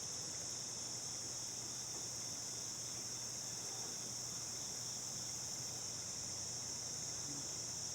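Steady, high-pitched background drone with a faint low hum under it; nothing else happens.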